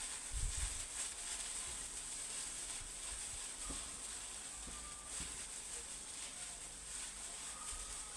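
Soft crackling and rustling over a steady hiss, from hair being handled during hair dyeing.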